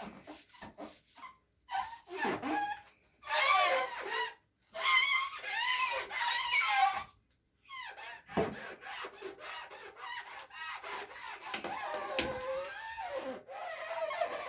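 Scrubbing while cleaning, rubbing in bursts with long wavering squeaks, loudest between about three and seven seconds in.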